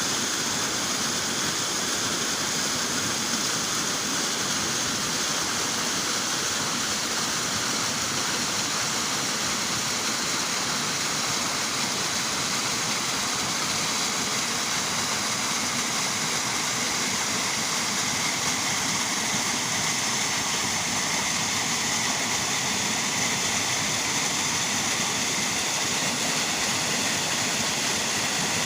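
A woodland waterfall: water falling and rushing in a steady, even roar.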